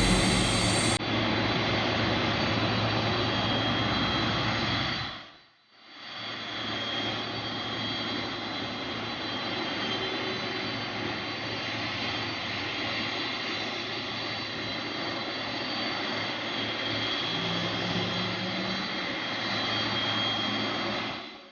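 Jet airliner engines running steadily: an even rushing noise with a thin high whine on top. The sound drops out briefly about five seconds in, then returns unchanged.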